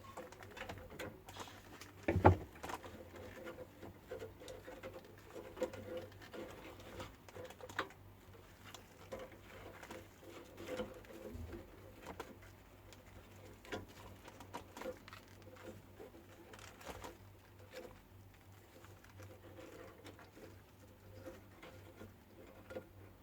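Pigeons cooing repeatedly, over scattered small clicks and knocks and a low steady hum, with one loud knock about two seconds in.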